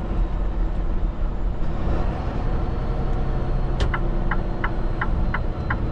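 Steady engine and road rumble inside a semi-truck's cab. A little under four seconds in, the turn-signal indicator starts ticking, about three ticks a second.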